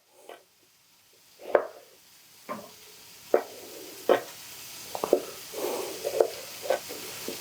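Knife halving Brussels sprouts on a cutting board, a sharp knock about once a second, over the steady sizzle of ham frying in a pan that comes up from about two seconds in.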